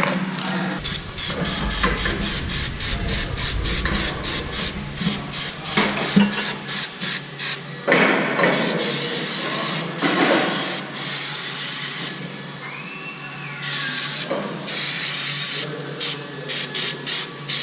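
Workshop tool noise during an engine teardown: a rapid stuttering run of short mechanical bursts, several a second, gives way to longer stretches of hiss, with a brief falling squeal near the middle.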